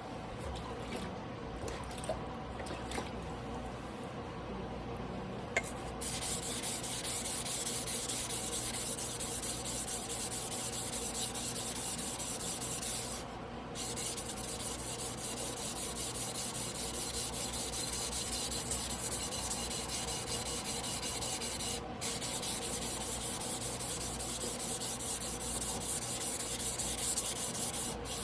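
A long carbon-steel yanagiba blade honed by hand on a whetstone: continuous scraping strokes of steel on stone, briefly pausing about 13 and 22 seconds in.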